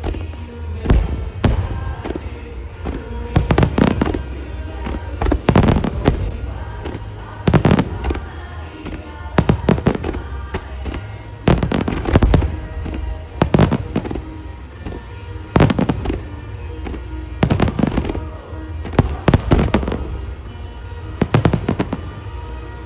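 Aerial firework shells bursting in a rapid barrage, sharp bangs every second or two, some in quick doubles, over a pop song played on loudspeakers as a music starmine.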